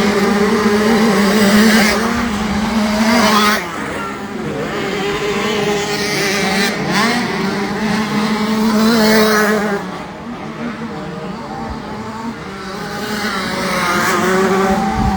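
Small two-stroke 65cc motocross bikes revving on the track, their engines rising and falling in pitch. They are loudest about three seconds in, about nine seconds in and near the end.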